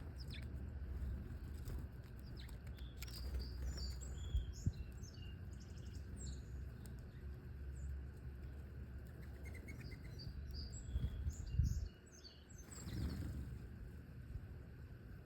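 Small birds chirping with short, high calls scattered through the clip, over a steady low rumble that drops away about twelve seconds in.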